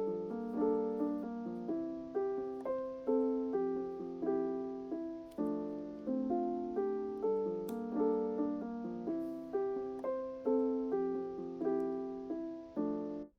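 Background piano music with a gentle, even rhythm of notes that ring and fade. It stops abruptly near the end.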